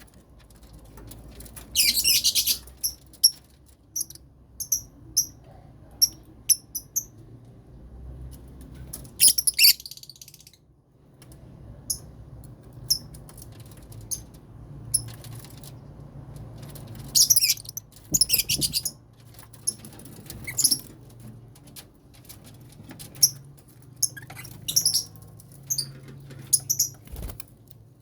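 A colony of lovebirds chirping: short, high-pitched calls in scattered bursts, with a louder cluster of calls every few seconds.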